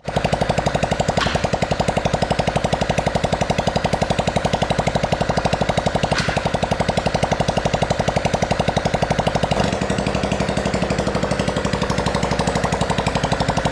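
Motorbike engine running steadily with a fast, even pulse of about ten beats a second; its tone shifts about ten seconds in.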